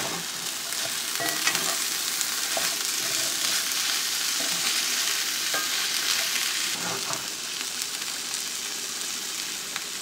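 Corned beef and canned green beans sizzling in a cast-iron skillet, stirred with a wooden spatula that scrapes and taps against the pan now and then.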